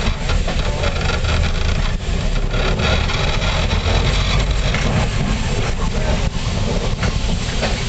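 North Shore Line electric interurban train running along the track, a steady rumble from the wheels and car heard from on board.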